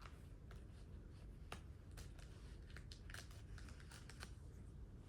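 Faint crinkling and tearing of a comic book blind bag's packaging as it is opened: a run of small scattered crackles and clicks.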